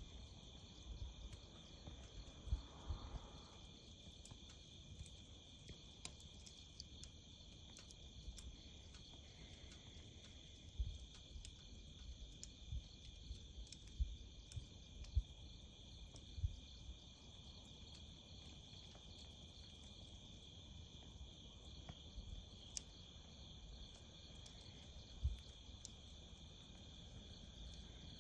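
Steady chorus of crickets singing in several high, unbroken bands, with scattered soft low thumps and faint crackles from a hardwood campfire.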